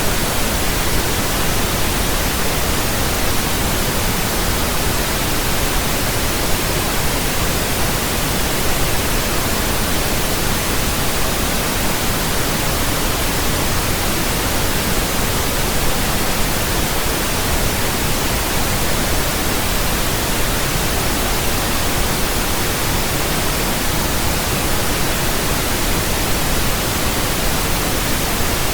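Pink noise: a steady, even hiss with a soft low rumble, unchanging throughout.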